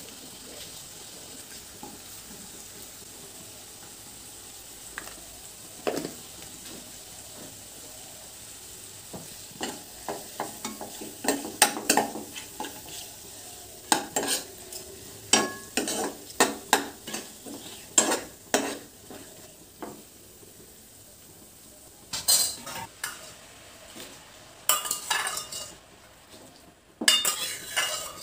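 Sliced onions and whole spices sizzling in hot oil in a kadai. From about ten seconds in, a spatula scrapes and knocks against the pan as they are stirred, with louder bursts of clatter near the end.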